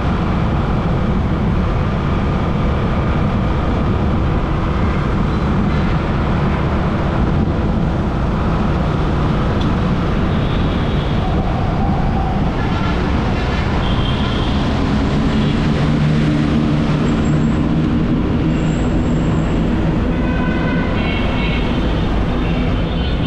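Dhaka Metro Rail train running: a steady low rumble, with a motor whine that rises in pitch in the second half.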